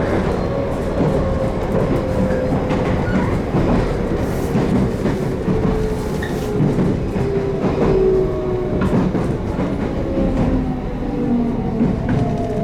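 JR Kyushu 813-series electric train running, heard from inside the car: a steady rumble of wheels on rail with light rail-joint clicks, and a traction-motor whine that slowly falls in pitch as the train slows.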